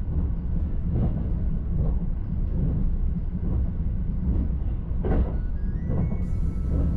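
Limited Express Azusa electric train running at speed, heard from inside the passenger car: a steady low rumble with soft, regular wheel-on-rail knocks a little more than once a second. Near the end, a faint tone steps up in pitch.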